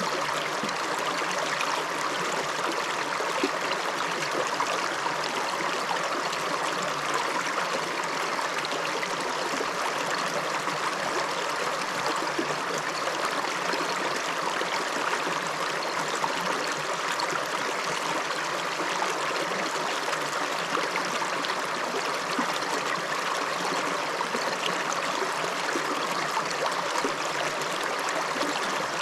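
A small upland river flowing over stones, a steady rushing and babbling of running water with no pauses.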